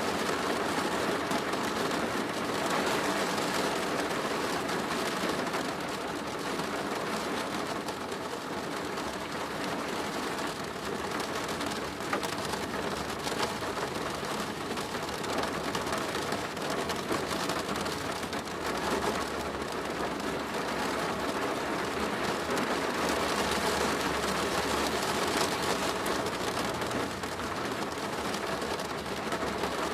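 Steady rain pattering on a plastic roof, a dense even hiss made of many small drop ticks.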